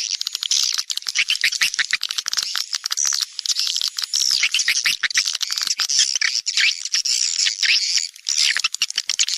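Edible-nest swiftlet call: a dense, unbroken chatter of rapid high twittering chirps and clicks from many swiftlets. It is the lure call played to draw swiftlets into a bird house to roost and nest.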